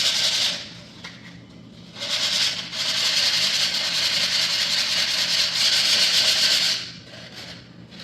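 100-grit sandpaper rubbed hard along the edge of a laminate floor plank to take off a small leftover edge. It stops about half a second in, starts again about two seconds in and runs steadily for nearly five seconds before stopping near the end.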